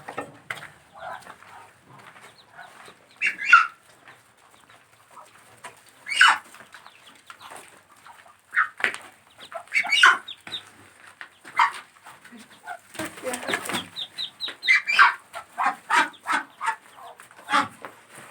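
Domestic ducks calling in short clucking calls scattered through the clip, with a rustling burst about thirteen seconds in.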